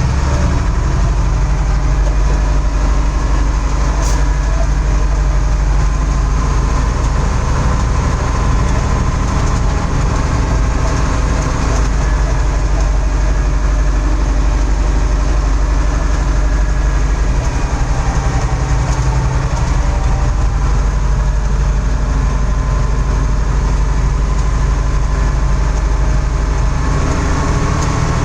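Heavy diesel engine running steadily with a low, even rumble, and a single click about four seconds in.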